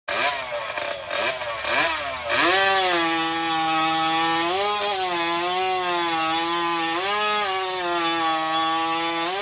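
Vintage two-stroke chainsaw blipped up and down a few times, then held at a steady high rev, its pitch rising briefly twice.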